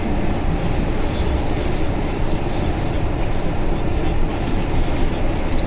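Steady rumble and hiss of a vehicle driving on a highway in heavy rain and strong wind, heard from inside: engine and road noise mixed with rain and wind.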